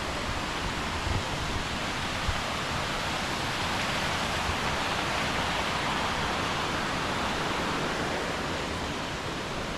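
Steady rushing of a cascading mountain stream: an even, unbroken hiss of water running over rocks.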